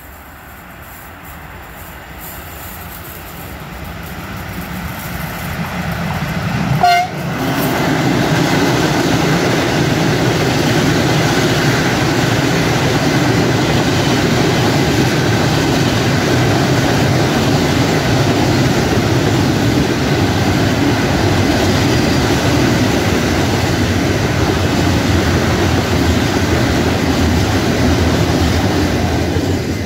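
A train approaching and growing steadily louder, then passing close by with a loud, steady rolling rumble. A brief sharp sound comes about seven seconds in, just as it reaches full loudness.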